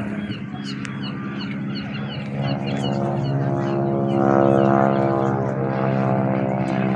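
Boeing Stearman wing-walking biplane's propeller engine droning past, growing louder about halfway through and peaking near the five-second mark. Short high chirps repeat over the first few seconds.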